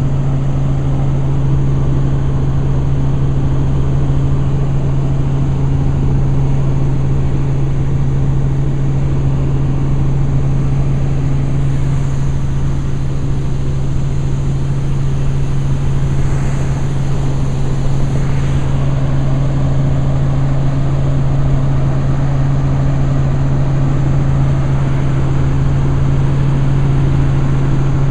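Helicopter in flight heard from aboard: a loud, steady drone of rotor and engine that does not change.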